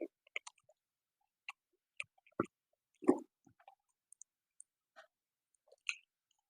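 Close-miked eating sounds: a person chewing with scattered wet mouth clicks and smacks, the loudest a couple of seconds in.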